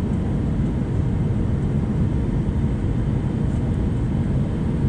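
Steady low rumble of engine and airflow noise inside the cabin of an Airbus A320-214 airliner.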